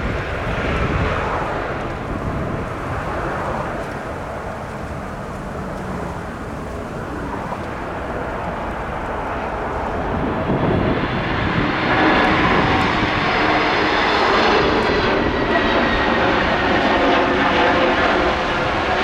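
Jet airliner engines on approach, a steady noise that swells about eleven seconds in, with whining tones sliding slowly in pitch as the aircraft passes.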